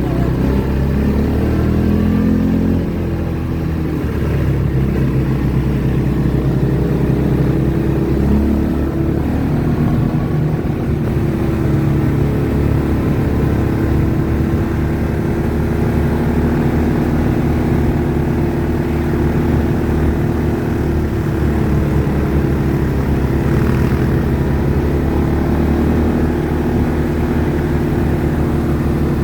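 ATV engine running while under way, mostly steady with small rises and falls in pitch as the throttle changes.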